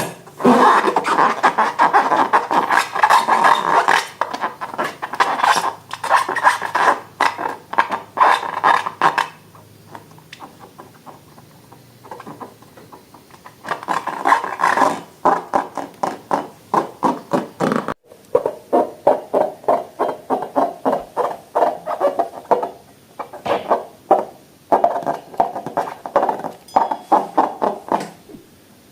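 Slime being squeezed and worked by hand: quick runs of sticky clicks and pops. There is a quieter gap about ten seconds in, and later the pops come at an even pace of about three a second.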